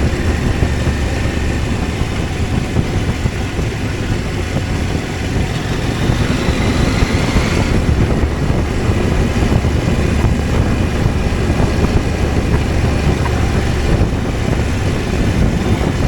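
CFMOTO 800MT's parallel-twin engine running under way, with wind noise over the microphone. A faint whine rises over the first half and breaks off about halfway through.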